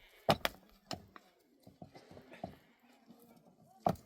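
Four sharp knocks: two in quick succession near the start, one about a second in, and one louder one near the end.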